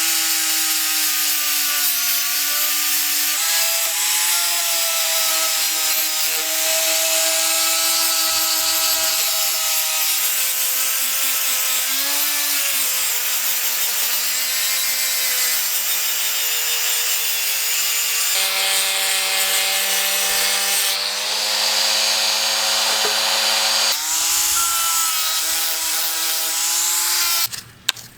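An electric power tool grinding rust off a steel blade: a steady motor whine over a rough, hissing grind, its pitch stepping up or down abruptly several times. It stops suddenly near the end.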